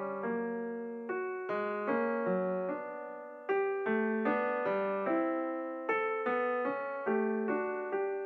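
Background piano music: a gentle melody of single notes and chords, each struck and left to fade, about two a second.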